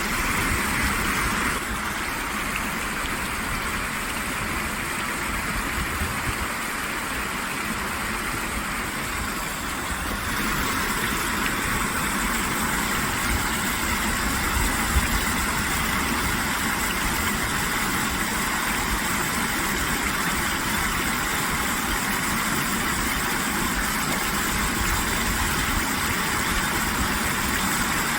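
Steady rushing background noise with no rhythm or clear pitch.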